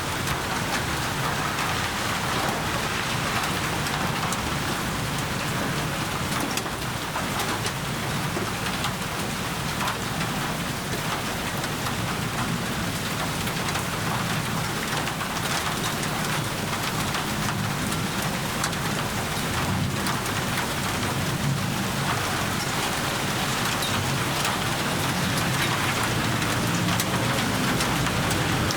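Steady heavy rain pattering on surfaces, with a low rumble of distant thunder underneath.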